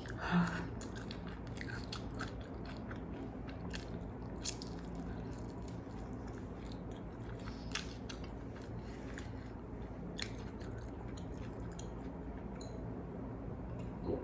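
Close-miked chewing of crispy fried chicken wings: wet mouth sounds with scattered small crunches and one louder bite about half a second in.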